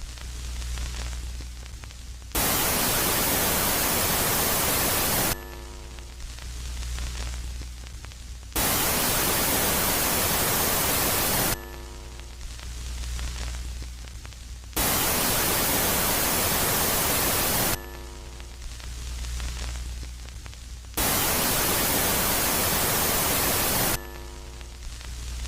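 Synthetic space-sound track, presented as the moon Megaclite, switching back and forth between a loud phase and a quiet phase. The loud phase is a steady white-noise hiss about three seconds long. The quiet phase is a low rumble with faint steady tones. There are four hiss phases.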